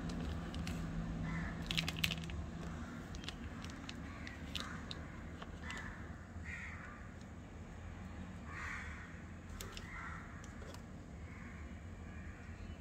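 Bird calls, short caws repeated every second or two, with a few sharp clicks, loudest about two seconds in.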